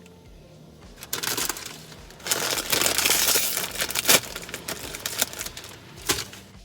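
Automatic car wash spraying and scrubbing the car, heard from inside the cabin: a rushing, pattering spray with irregular clattering. It starts about a second in, is loudest for a couple of seconds, then eases, with a few sharp knocks.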